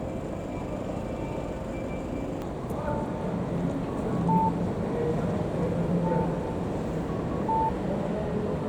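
City street ambience: a steady traffic hum with scattered voices.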